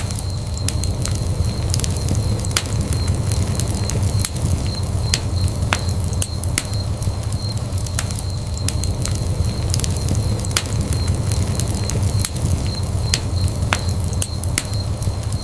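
Wood fire burning in a fireplace: a steady low rumble of flames with frequent sharp, irregular crackles and pops of burning logs.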